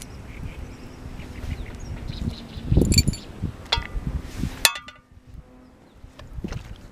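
Small metal camp cookware and utensils clinking a few times as they are handled, with short ringing after each clink, over low knocks and rustles.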